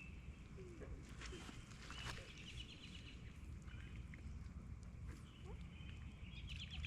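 Birds singing at the lakeside, with short, quick trilled phrases about two seconds in and again near the end, over a low steady rumble.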